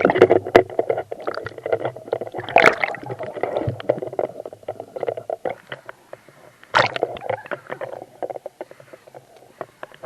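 Stream water splashing and sloshing in irregular bursts, with sharp clicks and knocks. It is busier and louder in the first half and thins out later.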